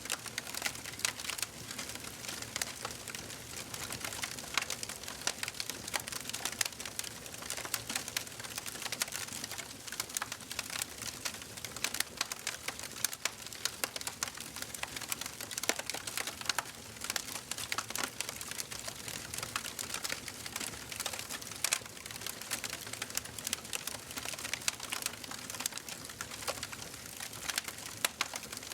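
Wood fire burning in a fireplace, crackling and popping constantly in many small irregular snaps over a soft hiss.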